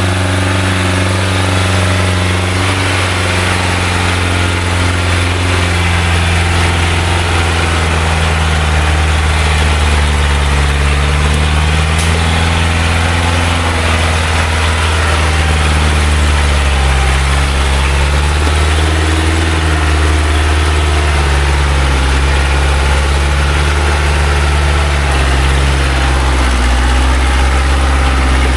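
Loaded logging truck's engine running under load as it works up a muddy hill, its pitch slowly sinking and rising again as the load changes.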